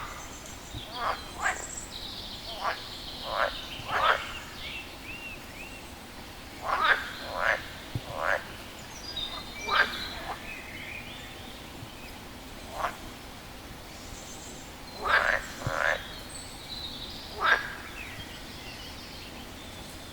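A frog calling: short croaks repeated at irregular intervals, some in quick pairs or threes with pauses of a few seconds between.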